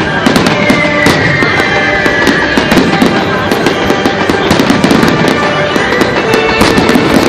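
Fireworks display: a dense, continuous run of bangs and crackles from bursting shells, with music playing along.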